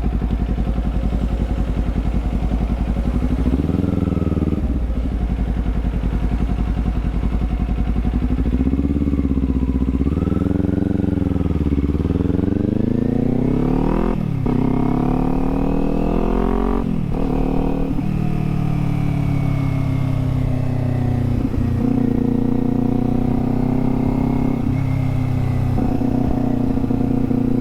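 Kawasaki Z400's parallel-twin engine under way: running low at first with a couple of short revs, then revving up through the gears around halfway, the pitch dropping suddenly twice at the upshifts, then pulling steadily at cruising revs.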